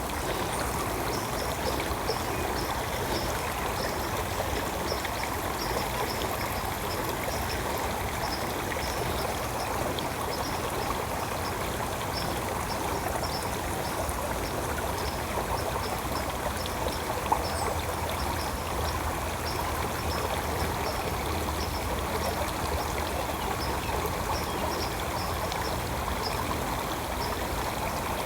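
Stream water flowing and trickling steadily, with a high, short chirp repeating a few times a second and a single sharp click about two-thirds of the way through.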